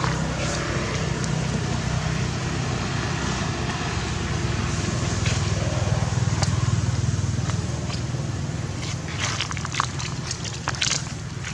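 A steady low rumble that swells around the middle, with a run of sharp clicks and crackles near the end.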